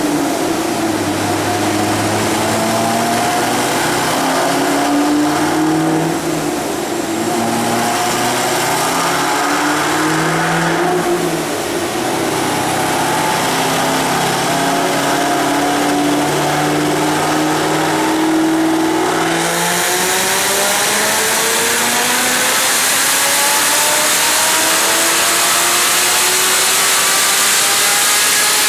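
Supercharged LS9 V8 in a Corvette Z06 on a chassis dyno, running with revs wavering up and down. About twenty seconds in it goes into a full-throttle pull, its pitch rising steadily with a loud hiss over it.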